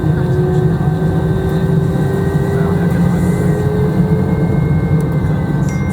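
Jet airliner engines heard from inside the passenger cabin: a loud, steady drone with a thin whine that slowly rises in pitch.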